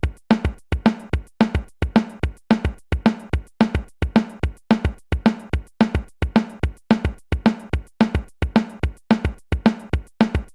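Drums playing a steady beat, about three hits a second, kick drum thuds alternating with snare drum hits.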